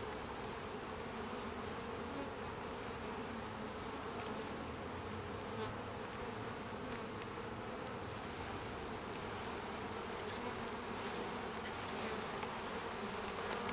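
Many honeybees from an opened hive buzzing in a steady, dense hum.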